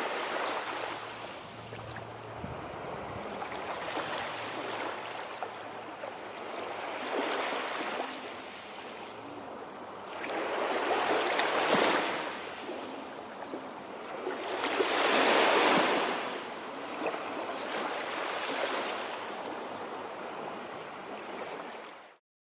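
Sea waves breaking and washing on a shore, rising and falling in swells, the two biggest about halfway through. The sound cuts off suddenly near the end.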